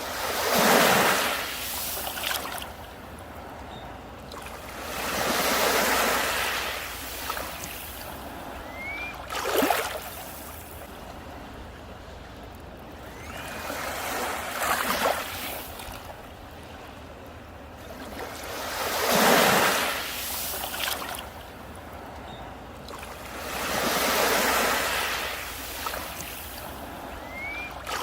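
Sea waves breaking and washing up on a beach, one surge every four to five seconds with a quieter wash in between.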